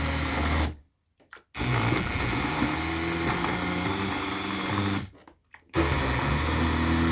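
Immersion blender running in a tub of soaked paper and water, churning it into pulp. It cuts out just under a second in and starts again about half a second later, then stops again around five seconds in and restarts before six seconds, its hum shifting slightly in pitch as the load changes.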